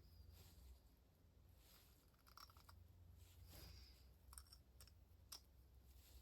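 Near silence: a low background hum with a few faint, sharp clicks scattered through it, the clearest about two and a half seconds in and again near the end.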